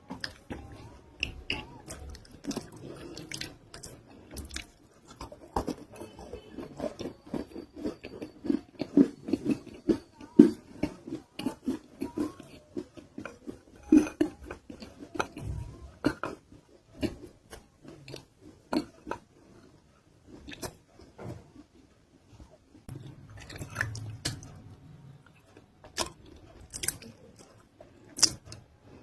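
Person biting and chewing a non-roasted nakumatt clay roll: crisp crunches and steady chewing, most dense through the middle and sparser a little past two-thirds of the way through.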